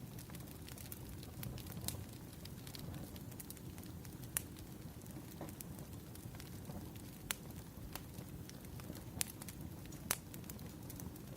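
Wood fire crackling: burning firewood giving irregular sharp pops and snaps over a low steady rumble, with a few louder pops in the second half.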